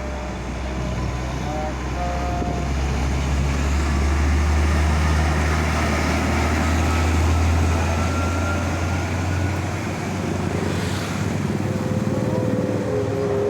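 Heavy truck's diesel engine drone as a truck passes, swelling to its loudest about halfway through and then easing off.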